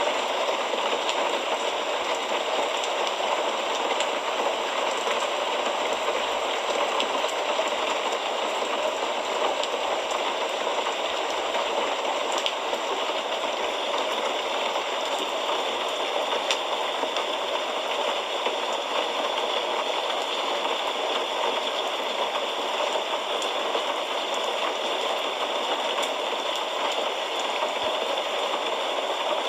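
Steady rain falling, an even continuous patter with occasional faint individual drop ticks.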